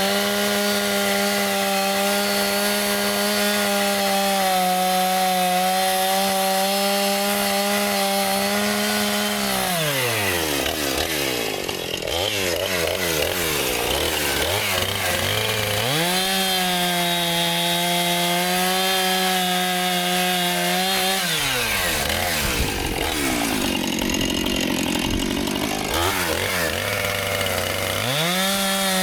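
Two-stroke chainsaw cutting timber to length. It runs at high throttle for about ten seconds, drops to idle, runs high again for about five seconds, idles again and revs up once more near the end.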